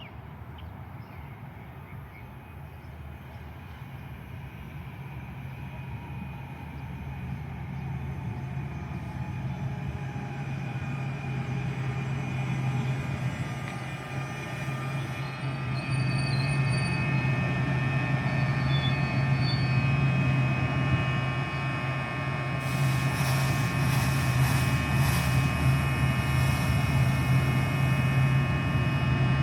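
An NJ Transit train approaching on the rails and growing steadily louder, with a steady low drone and high thin squealing tones. Rapid clicks come in over the last several seconds as it draws close.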